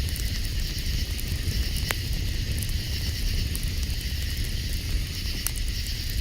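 Night outdoor ambience: a steady chorus of night insects buzzing in several high bands over a constant low rumble, with scattered sharp clicks and pops, one distinct about two seconds in.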